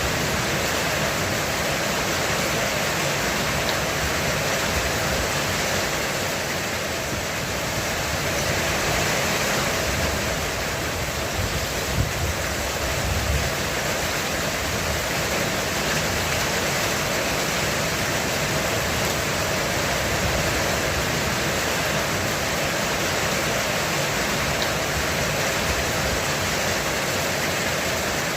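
Heavy rain beating steadily on a roof, an even hiss of drops. A brief low rumble and a sharp thump come about twelve seconds in.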